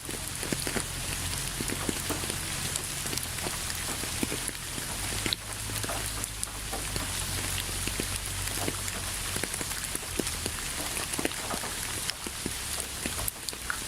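Steady rainfall: a continuous hiss of rain with many individual drops ticking on a hard surface, over a low steady rumble.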